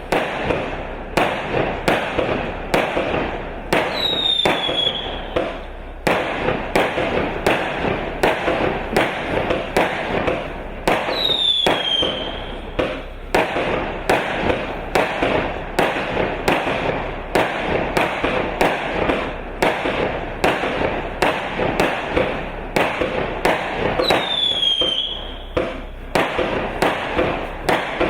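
A 100-shot, 0.6-inch consumer fireworks cake firing in quick succession: sharp launch and burst reports about two a second over a continuous dense hiss of effects. Three times a short falling whistle cuts through.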